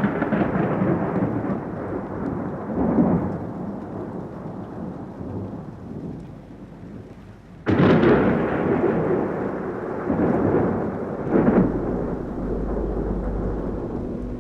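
Thunder: a sharp clap that rolls off into a long rumble. A second clap comes about eight seconds in, and another surge of rumble follows a few seconds later.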